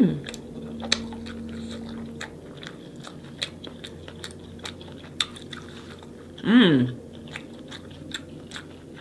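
Close-miked mouth sounds of eating a saucy seafood boil: chewing with wet clicks and smacks at irregular intervals. A brief voice-like sound comes about two-thirds of the way through.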